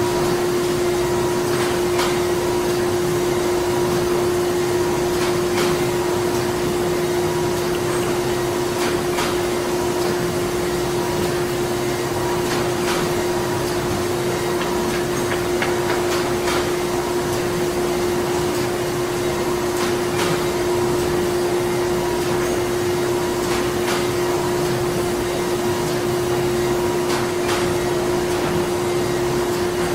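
Printing-factory machinery running steadily: a constant mechanical hum with one strong steady tone, a faint higher tone pulsing on and off, and scattered light clicks and knocks.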